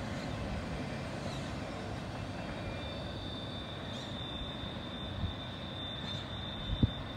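Double-stack intermodal freight train rolling away on the main line: a steady rumble of wheels on rail as the last cars recede. A thin, steady high-pitched squeal joins about three seconds in, and two soft knocks come near the end.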